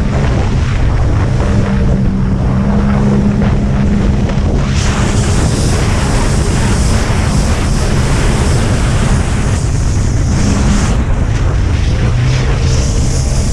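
Jet ski engine running hard, with rushing water and wind buffeting the microphone; a brighter hiss of spray and wind comes in about five seconds in.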